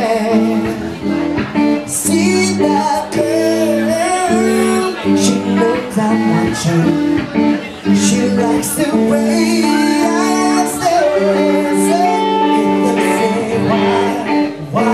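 Live band playing a slow pop ballad, with guitar, held chords and a singing voice.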